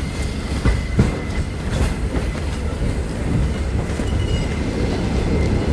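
Mary Valley Rattler heritage steam train's carriages rolling along the track: a steady rumble, with the wheels clacking sharply over rail joints a couple of times near the start.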